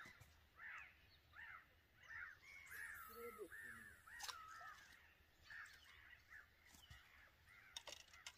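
Faint bird calls: a bird calling over and over in short arched calls, a couple a second, with a brief gap a little past the middle before it starts again.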